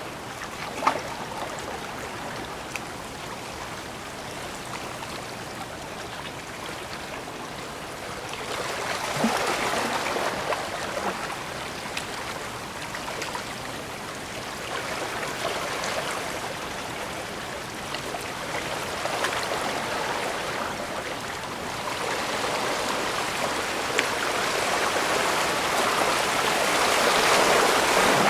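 Small waves washing and lapping at the edge of a bay, swelling and easing every several seconds, with a couple of sharp clicks.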